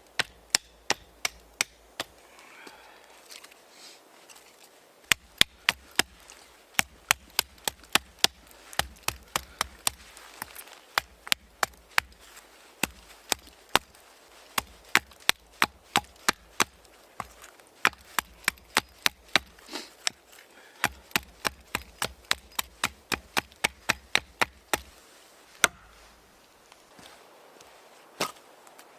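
Repeated chopping strikes on wood, quick and sharp, about three a second, in runs with brief pauses between them.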